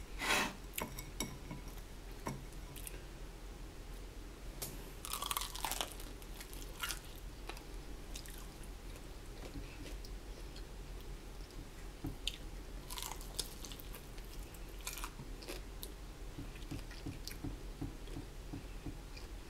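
A person chewing a fried chicken wing dipped in nacho cheese sauce, with scattered sharp crunches and clicks between the softer chewing.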